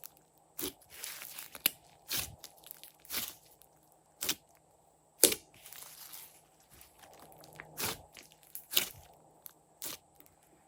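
Glossy slime being squished and pressed by hand: sharp pops and clicks about once a second, with softer sticky stretching sounds between them.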